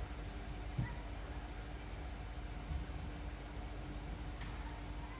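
Outdoor ambience of insects singing one continuous high steady trill over a low rumble, with a few faint short chirps.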